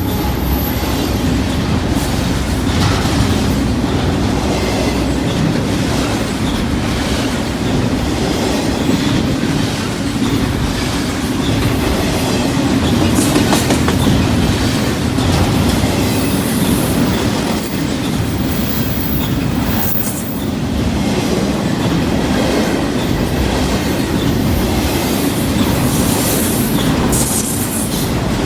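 Union Pacific intermodal freight train's cars rolling past close by: a steady rumble of steel wheels on rail with clickety-clack over the joints.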